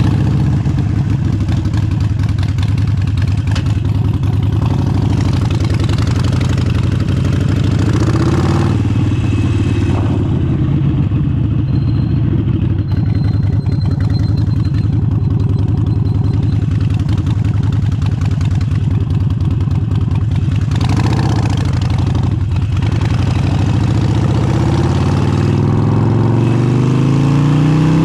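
Harley-Davidson Forty-Eight's air-cooled 1200 cc V-twin, fitted with an aftermarket exhaust, idling loud and steady just after being started. Its pitch rises briefly about two-thirds of the way through and climbs again near the end as the throttle is opened.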